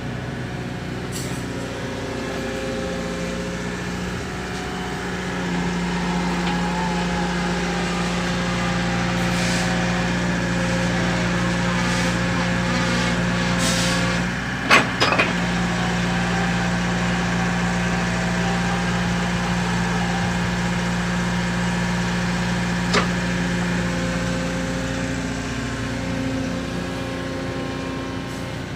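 Mini excavator's diesel engine running steadily, rising in pitch a few seconds in as it takes up hydraulic load and settling back near the end. A single sharp metallic knock about halfway through, and a lighter click later.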